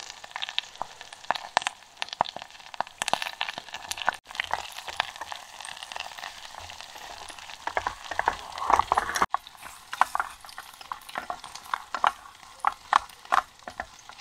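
Soya chunks sizzling as they fry in oil in a small pot on a camping gas stove, with a wooden spatula knocking and scraping against the pot as they are stirred. The sound breaks off abruptly twice, about 4 and 9 seconds in.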